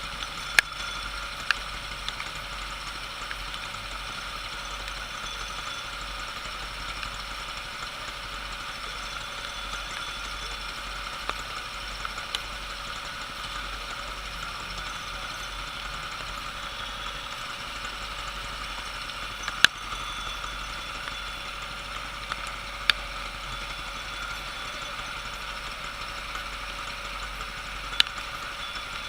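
An engine idling steadily without revving, with a handful of sharp, scattered clicks.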